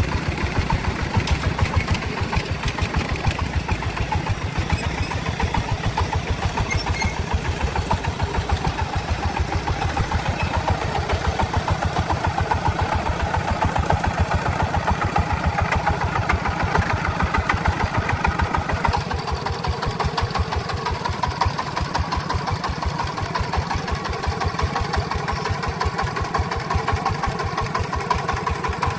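Truck engine running steadily with an even low pulse, its tone shifting slightly about nineteen seconds in.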